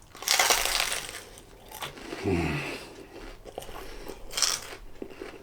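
Biting into a chicken, pepper and lettuce wrap, a loud crunch lasting about a second, then chewing, with a second shorter crunch near the end.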